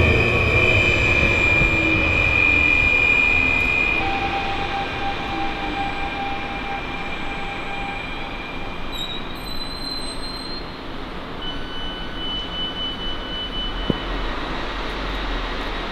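Stadler passenger train running past and away, loudest at first and fading, with high steady whines coming and going over its rumble.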